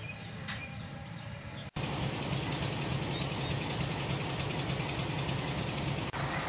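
Train at a station, its engine running with a steady low rumble that starts abruptly about two seconds in, after a quieter stretch of background.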